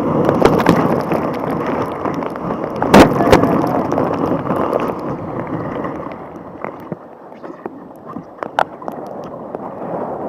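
Rushing water and wind noise from a kayak out on the sea, with a sharp knock about three seconds in and a few lighter clicks. The noise dies down after about six seconds.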